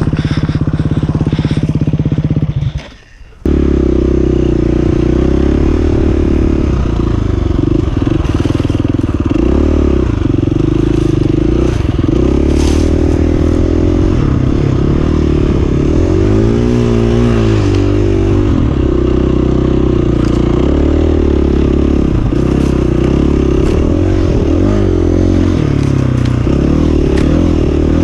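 2019 KTM 350 EXC-F dirt bike's single-cylinder four-stroke engine running hard on a trail, its pitch rising and falling as the throttle is opened and closed. The sound drops out for about half a second about three seconds in, then the engine carries on.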